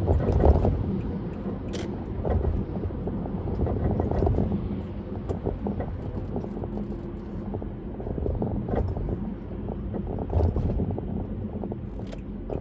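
A car driving at road speed: a steady low rumble of tyre and road noise with wind on the microphone, and a few scattered short knocks.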